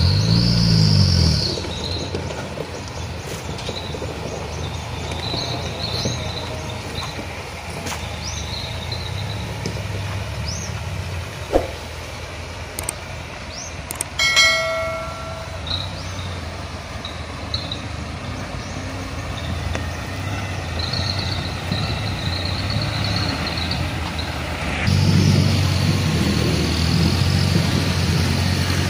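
Diesel engine of a Mitsubishi Canter dump truck running steadily. It is louder at the very start and swells again near the end, with a short beep about halfway through.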